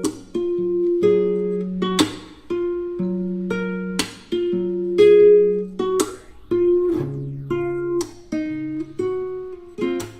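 Background music played on a guitar: a slow melody of plucked single notes, with a sharper strummed stroke about every two seconds.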